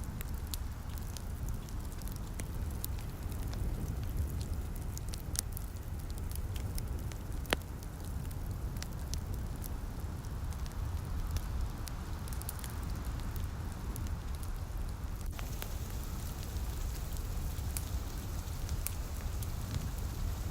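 Wood fire crackling with scattered sharp pops, one louder pop about seven and a half seconds in, over a steady low rumble and the soft hiss of light rain.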